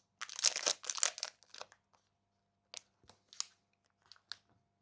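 Brownie packaging crinkling and rustling as it is handled: a dense burst of crackling in the first second and a half, then scattered short crackles.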